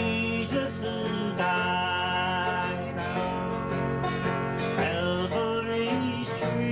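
Country gospel string band playing an instrumental break of a slow song, with guitar and other plucked strings over a steady bass.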